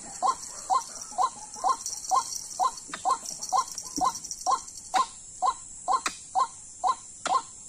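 White-breasted waterhen (dahuk) calling: a steady, monotonous series of short notes repeated about twice a second.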